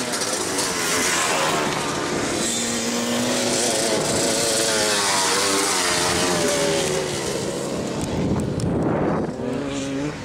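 Several dirt bike engines running at once, their pitches rising and falling as the throttles open and close, with a rush of noise about eight seconds in.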